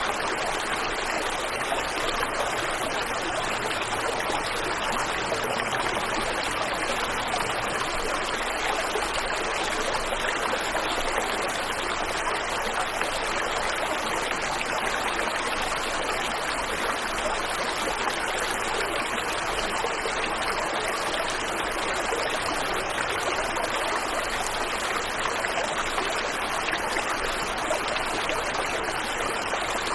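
Waterfall and river water rushing and splashing in a steady, unbroken wash.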